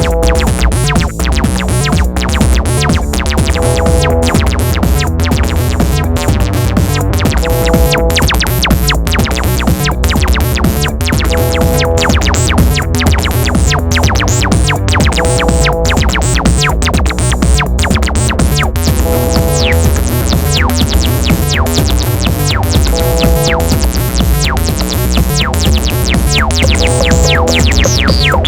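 Eurorack modular synthesizer playing a sequenced acid pattern: fast pulsing notes over a heavy, steady bass, with electronic drum hits. A short higher figure repeats about every four seconds, and falling glides sweep down near the end.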